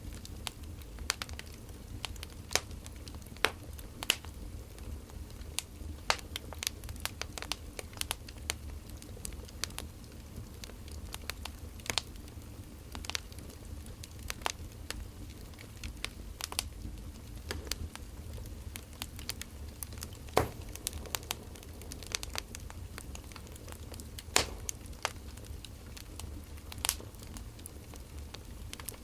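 Burning firewood crackling: irregular sharp pops and snaps over a low, steady rumble.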